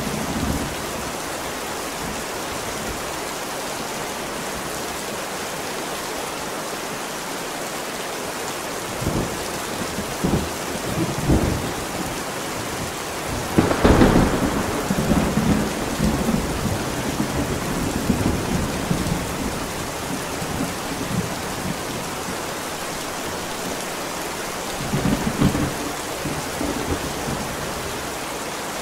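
Steady heavy rain with repeated rolls of thunder: low rumbles about nine to twelve seconds in, a loud close crack about halfway through that rumbles on for several seconds, and another rumble near the end.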